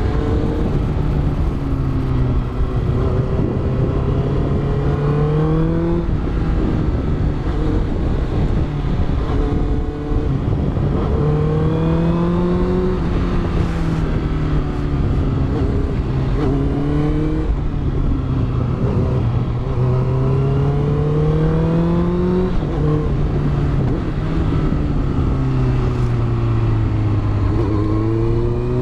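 Honda CBR650F inline-four engine with a Yoshimura exhaust, heard onboard under way. The engine pitch climbs and then drops back every few seconds as the rider works the throttle and gears, with wind noise underneath.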